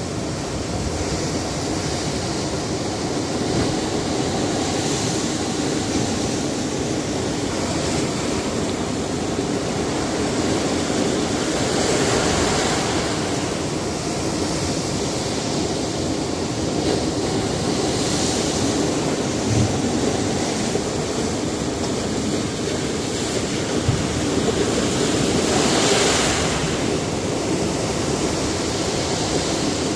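Sea surf breaking on a rocky shore: a continuous wash of waves that swells every several seconds as a wave breaks.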